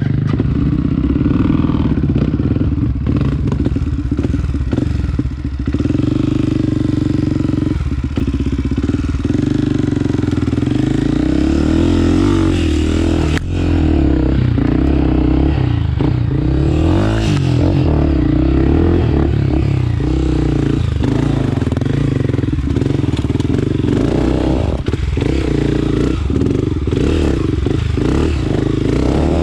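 Honda CRF250F's single-cylinder four-stroke engine running under way on a trail ride, its revs rising and falling with the throttle, heard from a helmet-mounted camera.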